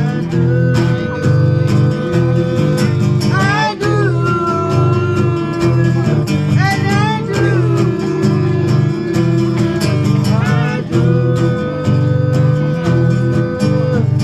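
Live blues song: strummed guitar with a strong bass line and a singer's held notes that slide up into phrases a few times.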